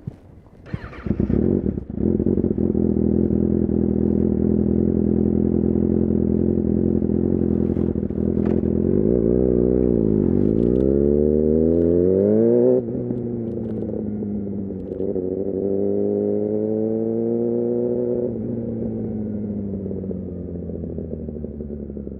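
Kawasaki Ninja ZX-6R inline-four engine starting about two seconds in, then running steadily at low revs. Around the middle the revs sag and climb, cut sharply once, climb again and ease back down.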